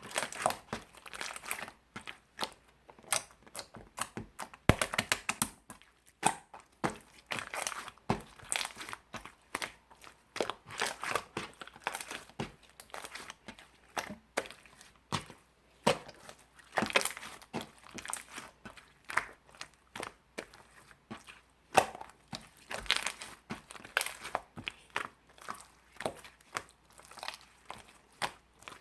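Clear slime being squished and stretched by hand, giving irregular wet crackling pops and clicks, several a second.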